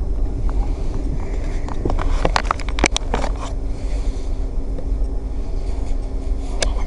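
Steady low hum of a train standing at the station, with a quick run of sharp clicks and knocks from about two to three and a half seconds in and one more click near the end.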